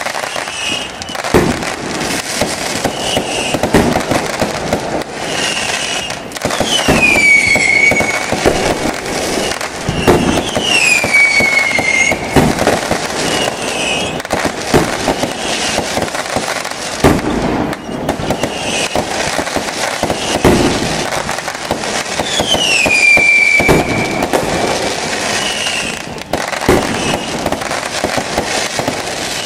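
Fireworks display: repeated bangs of shells bursting over a steady crackle, with three high whistles that fall in pitch.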